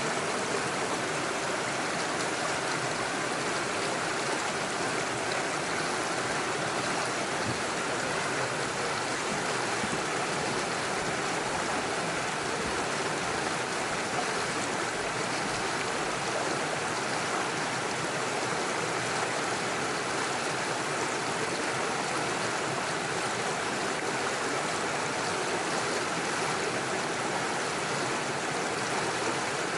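Small forest stream rushing steadily over stones and through little waterfalls, an even, unbroken water noise.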